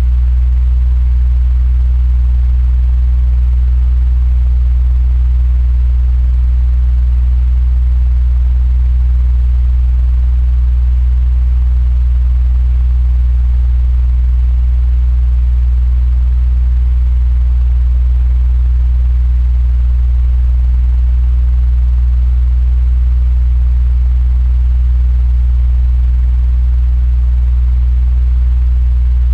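Electric fan running steadily: a strong, deep hum with a soft, even airy hiss above it.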